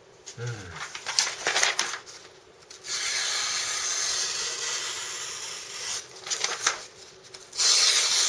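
Scraping and rubbing: a few short strokes, then a steady scrape lasting about three seconds, and another loud scrape near the end.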